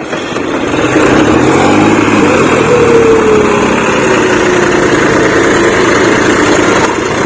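Tractor diesel engines running hard, loud and steady, while pulling a cage-wheel tractor out of deep mud; the sound swells about a second in and the engine note slowly falls in pitch through the middle.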